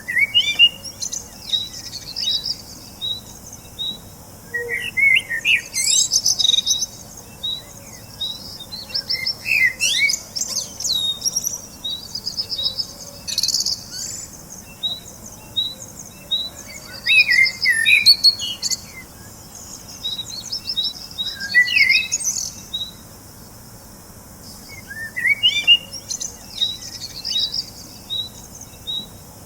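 Songbirds singing and chirping in bouts of quick, high phrases, with short gaps between them. Between the phrases come runs of evenly spaced high chirps.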